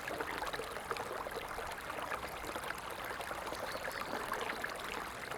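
Running water in a small stream, trickling and splashing steadily over stones.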